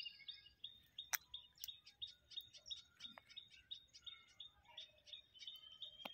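Small birds chirping faintly, a steady stream of short high calls, with a sharp click about a second in and another near the end.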